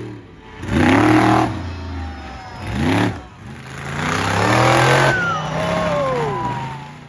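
Monster truck engine revving hard in three surges, each climbing in pitch, the last one falling away in a long downward glide.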